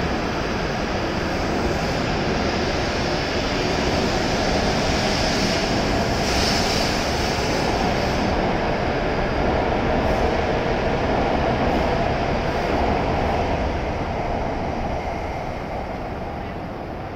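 E7/W7-series Hokuriku Shinkansen train pulling out of the station and running past the platform, a steady rush of wheel and running noise. The noise dies away near the end as the last car clears the platform.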